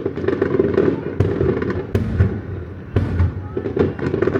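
Fireworks shells bursting in quick succession, several loud bangs a second over a continuous rumble and crackle.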